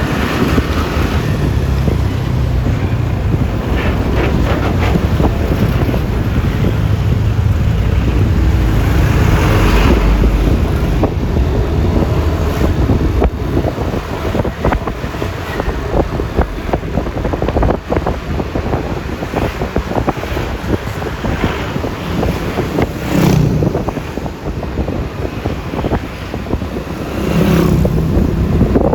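Wind rushing over the phone's microphone on a moving Yamaha Lexi LX 155 scooter, with its engine and the road and traffic noise underneath. The level swells about ten seconds in and twice more near the end.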